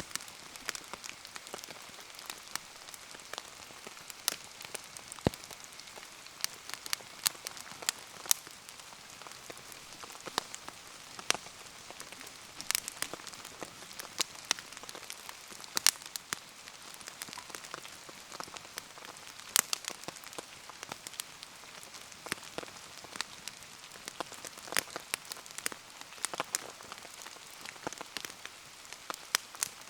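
Steady rain hissing around a wood bonfire, with frequent sharp, irregular pops and crackles.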